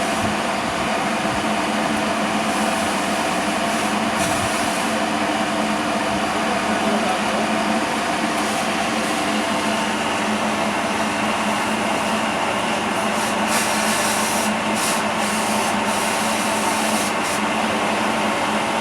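Steady mechanical drone of machinery running continuously, a broad noise with a low hum in it and no change in level.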